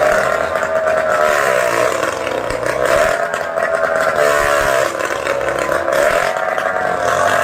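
Motorcycle engine revving, its pitch rising and falling over and over without a break.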